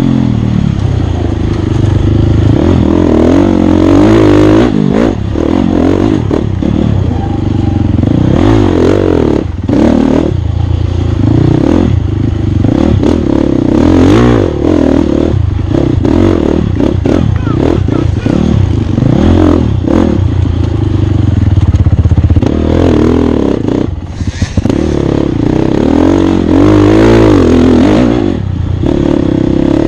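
Dirt bike engine revving up and down under constant throttle changes, with frequent knocks and clatter from the bike. The engine briefly drops off about three-quarters of the way through, then picks up again.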